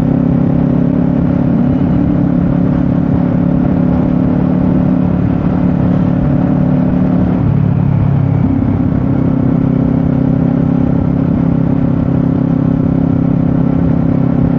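Kawasaki Z500 parallel-twin motorcycle engine running steadily under way, with its note dipping and changing briefly about halfway through, then settling again.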